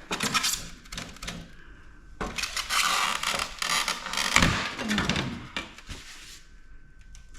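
Metal parts of a PTAC air-conditioner unit clattering and scraping as it is pulled apart by hand: a quick run of clinks, then about three seconds of rattling and scraping that fades near the end.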